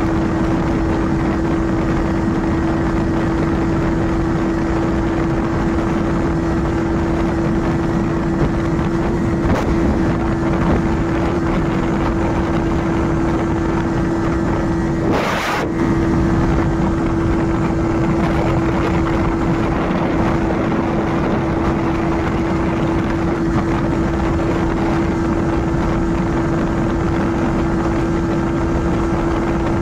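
Yamaha R15 V4's 155 cc single-cylinder engine held at high revs in sixth gear near top speed, a steady engine note under heavy wind and road rush. The note breaks off briefly about halfway through.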